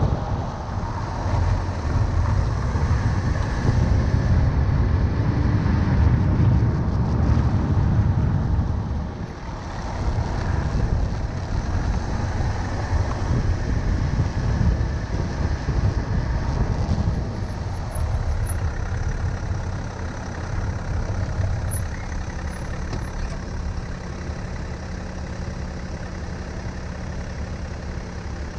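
Tyre, road and wind noise from a BMW 335d's front wheel while driving, a heavy low rumble. In the second half the rumble eases and a steady low hum comes in, as if the car is slowing.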